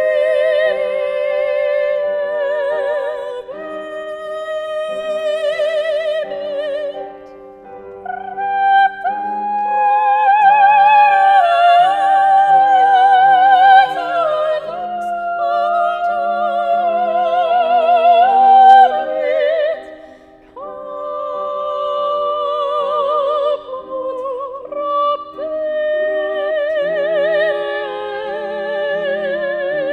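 A solo singer in an operatic style, singing high sustained notes with wide vibrato over held accompaniment chords. The singing pauses briefly twice.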